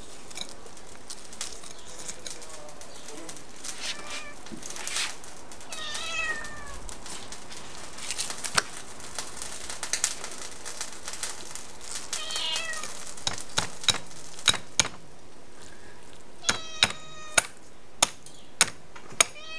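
A cat meowing several times, drawn-out cries with gaps between them. Sharp knocks of a kitchen knife on a wooden cutting board while a fish is scaled and filleted, coming faster and louder in the second half and the loudest sounds present.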